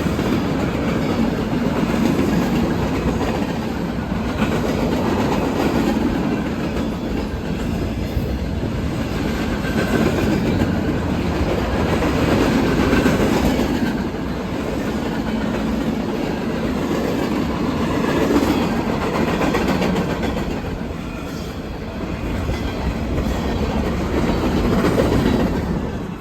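Train running on rails: continuous rumble with wheels clattering over the track, swelling and easing in level.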